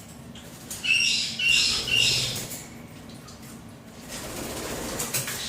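A pet parrot giving three short, high chirps in quick succession, starting about a second in.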